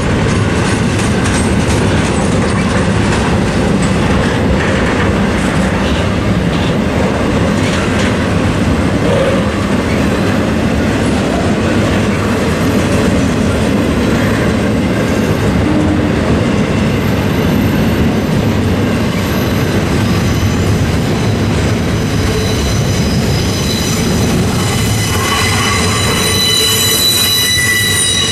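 Double-stack intermodal freight cars of a CSX train rolling through a level crossing: a steady rumble and clatter of wheels on the rails. Near the end, high wheel squeal rises over the rumble.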